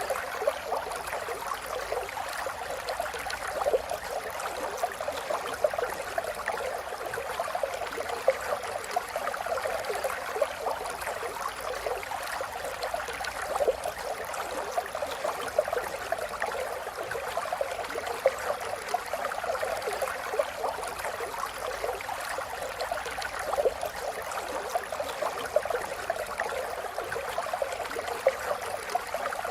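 River water flowing and babbling over stones, a steady splashing rush with many small bright gurgles and splashes throughout.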